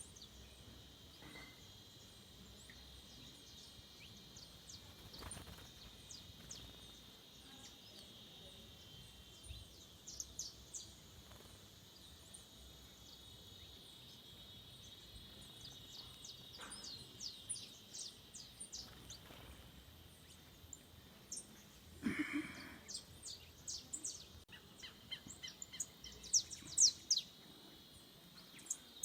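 Several wild birds chirping with short, sharp high calls that come in clusters, over a steady high-pitched hum. About two-thirds of the way through there is one brief, louder, lower sound that falls in pitch.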